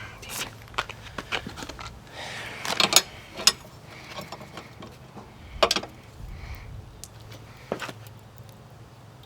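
Hand tools and small metal parts clicking and clattering in irregular knocks and rattles, loudest in a quick cluster about three seconds in, over a steady low hum.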